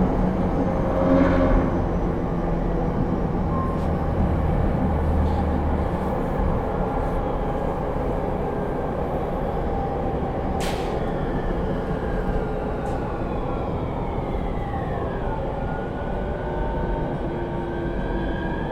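JR East E231 series suburban electric train heard from inside the car: steady wheel and track rumble, with the whine of its Hitachi IGBT inverter motor drive falling in pitch a little past halfway and then a tone rising slowly near the end. A single sharp click comes just before the falling whine.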